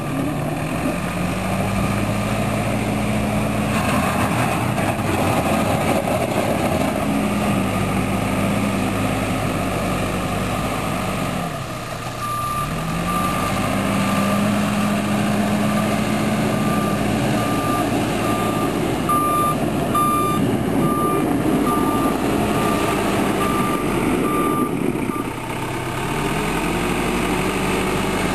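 Backhoe loader's 100 hp Perkins diesel engine revving up and down under working load, its pitch dropping about halfway through and rising again. A reversing alarm beeps steadily through the middle of the stretch as the machine backs up.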